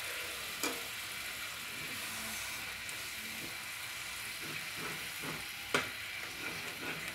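Spinach puree and masala paste sizzling as they fry in a nonstick pan while a spatula stirs them, with a sharp click of the spatula on the pan under a second in and a louder one near six seconds.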